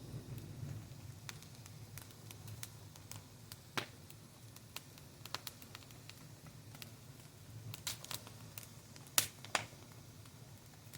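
Wood fire crackling, with irregular sharp pops, the loudest a pair about nine seconds in, over a low steady rumble of burning.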